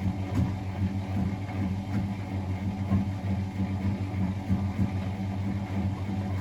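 Miele Novotronic W921 washing machine running, with a steady low motor hum and a fluctuating rumble.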